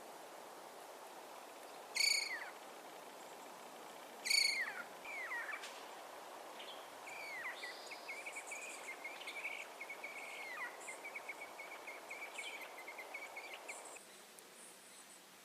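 A wild animal calling outdoors: two sharp downward-sliding calls, then a long, rapid chattering trill lasting about six seconds. A steady background hiss runs underneath and drops away suddenly near the end.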